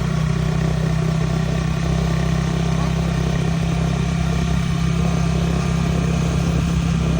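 Rice harvester's engine running steadily at an even speed, a constant low drone with no change in pitch.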